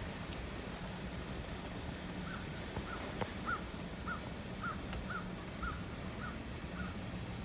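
A bird calling a run of about ten short, evenly spaced calls, about two a second, starting about two seconds in, over a steady low background hum.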